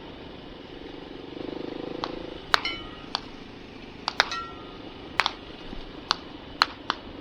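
A series of about nine sharp gunshots from nearby target shooting, irregularly spaced, some with a short ringing tail. Under them a dirt bike's engine idles and rises briefly about a second and a half in.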